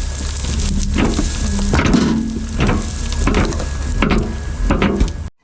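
Heavy diesel machinery running at the loam yard: a steady low engine hum under a crackling, rattling noise that surges about every three-quarters of a second, as wet loam is worked and loaded. It cuts off suddenly near the end.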